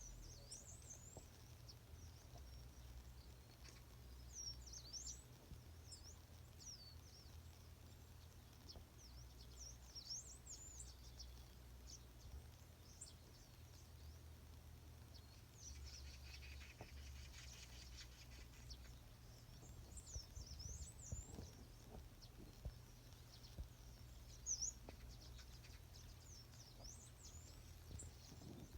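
Faint morning birdsong: small birds giving short, high chirps that sweep up and down, scattered every few seconds, over a low steady rumble.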